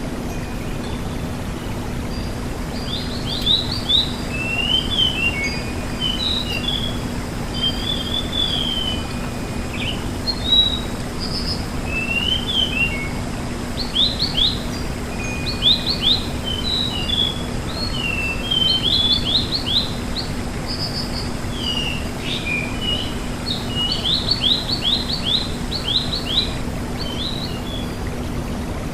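Tledekan gunung (sulingan gunung) songbird singing actively in short, quick phrases of high fluting whistles, rapid downward-stroked notes and warbles, with brief pauses between phrases. A steady low hum and a hiss run underneath.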